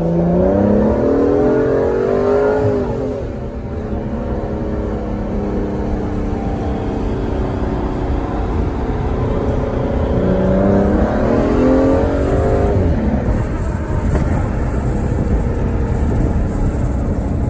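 Aston Martin DBS Superleggera's twin-turbo V12, heard from inside the cabin, pulling hard under acceleration. The engine note rises steeply for about three seconds at the start and again about ten seconds in, with steady running and a low road rumble between and after the pulls.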